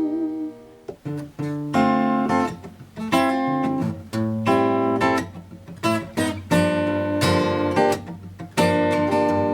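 Acoustic guitar playing strummed chords in an instrumental break, a string of separate chord strikes. A held sung note with vibrato fades out about half a second in.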